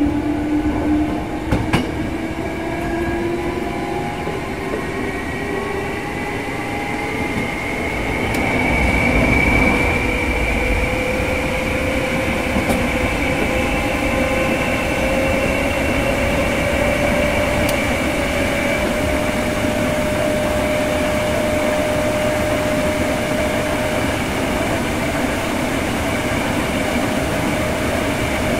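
Hankyu 6300 series electric train running, heard from inside the passenger car. A whine from the drive gear rises steadily in pitch for about the first fifteen seconds as the train picks up speed, then holds steady. Underneath it runs the rumble of wheels on rail.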